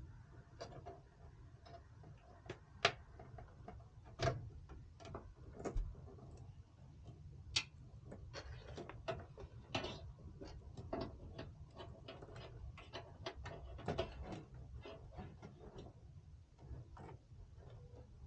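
Irregular light clicks and taps of small hardware parts being handled, with a few louder knocks, over a steady low hum.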